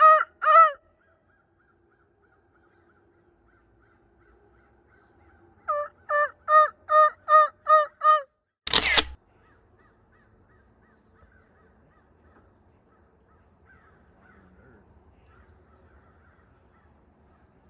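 A bird calling in loud runs of evenly spaced, rising-and-falling notes, about three a second: a few notes at the very start and a run of about seven notes around the middle. Right after the second run comes a brief, loud burst of noise, then faint background.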